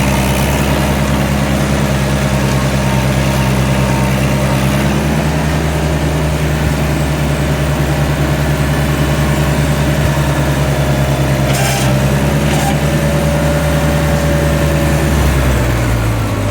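International Harvester 574's four-cylinder gasoline engine running steadily, the pitch shifting slightly about five seconds in and dropping near the end as the engine slows. With its new Pertronix electronic ignition it runs smoothly, with the earlier miss gone.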